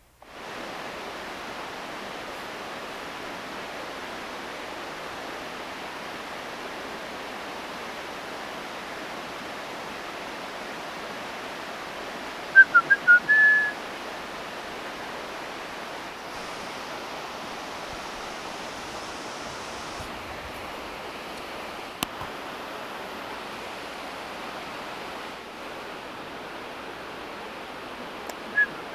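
Steady, even rush of falling or running water, a waterfall or mountain stream. A few short, high whistled notes cut in about twelve seconds in and again at the very end.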